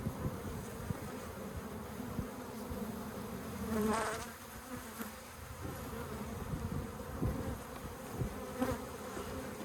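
A honeybee colony buzzing in a steady, dense hum, the bees stirred up as their nest is opened. The buzz swells louder for a moment about four seconds in, and again briefly near the end.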